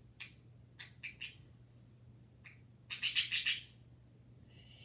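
Pet bird squawking and chirping while it is held for a wing clip. A few short, high calls come first, then a louder run of harsh squawks about three seconds in.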